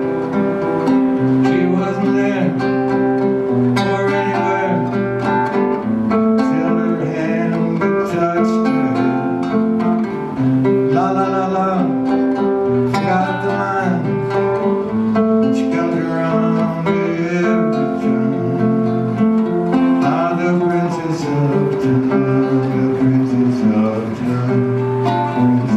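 Acoustic guitar playing an instrumental passage of a song, chords and melody notes changing steadily.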